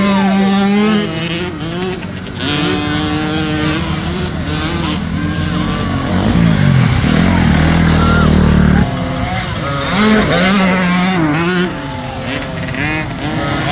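Several small youth dirt bikes racing, their engines revving up and down with gear changes. The tones overlap as bikes pass close by, and the sound is loudest for a few seconds mid-way before dropping off suddenly.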